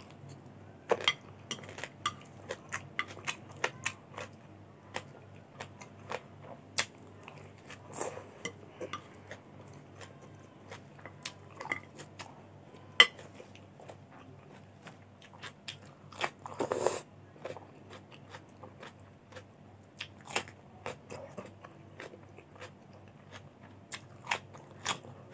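Close-miked chewing and crunching of rice with fresh cucumber and green vegetable stalks, with many short sharp clicks and scrapes of a plastic spoon and fork on the plate.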